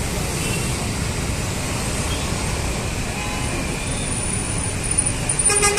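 Steady city road traffic noise with a low rumble of passing vehicles. Near the end a vehicle horn starts sounding, one held note.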